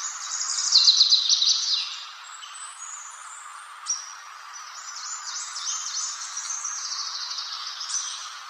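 A songbird singing: a loud run of rapid high trills about a second in, then a longer, softer stretch of varied high phrases, over a steady background hiss.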